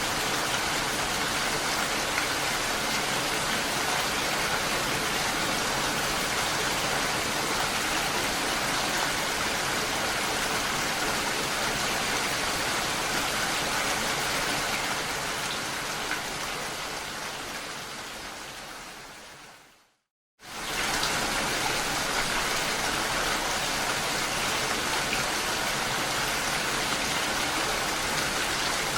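Steady rain, an even dense hiss of falling drops. About two-thirds through it fades away over several seconds to a brief moment of silence, then comes straight back in at full strength.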